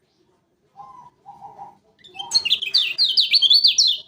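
Kecial kuning (a Lombok white-eye) singing. A few soft, lower notes come first, then about two seconds in a loud, rapid run of high chirps that sweep down and up, about five a second.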